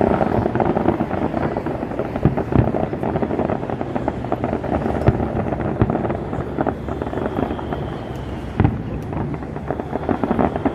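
Fireworks display: a dense run of crackling and popping shell bursts with a low rumble underneath, and a few sharper bangs standing out.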